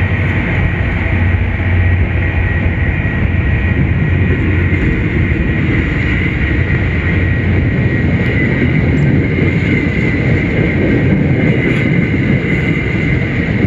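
MBTA commuter rail coaches rolling past close by: a steady, loud rumble of steel wheels on the rails, with a steady high ringing tone over it.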